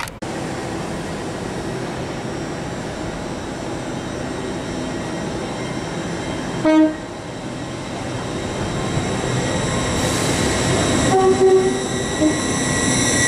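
Great Western Railway Hitachi IET (Class 800-series) high-speed train approaching and passing through the station. A short horn blast comes about halfway through, then the rush of the train grows louder as it arrives, with two more short horn notes as the front of the train goes by.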